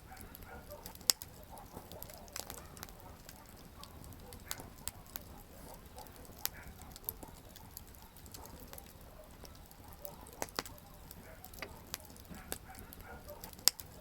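Wood campfire crackling, with irregular sharp pops and snaps, the loudest about a second in and near the end, over a low steady rumble of burning wood.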